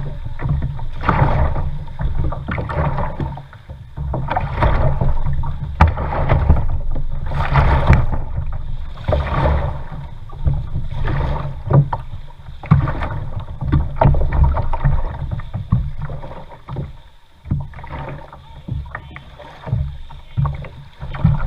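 Kayak paddle strokes swishing through the water, one about every second and a half to two seconds, over a steady low rumble. The strokes let up briefly about two-thirds of the way in.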